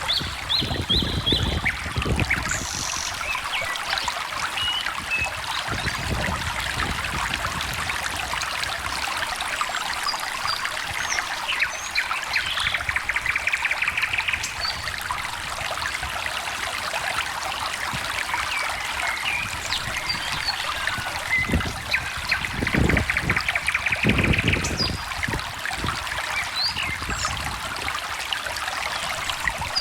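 A small stream trickling and babbling steadily, with songbirds chirping over it and a longer trilling song twice. A few low rumbles come through about two-thirds of the way in.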